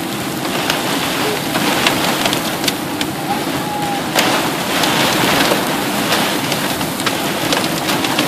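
Heavy rain pouring down in a steady hiss, with many sharp ticks scattered throughout from drops striking close by.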